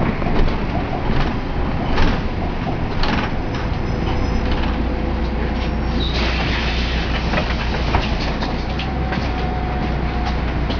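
A vehicle running with a steady low rumble, scattered clicks and rattles on top; the rumble grows heavier about four seconds in.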